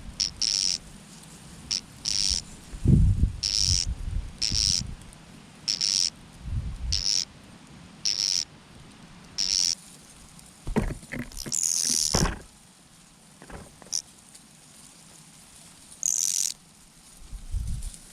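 Mynas calling: short high chirps repeated about once a second, with a longer run of calls about twelve seconds in. Several low thumps come between the calls.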